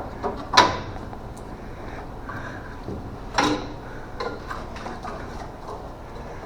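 A few scattered knocks and clinks of tools and parts during work on a car's front suspension, over a steady low hum. The two loudest come about half a second in and about three and a half seconds in.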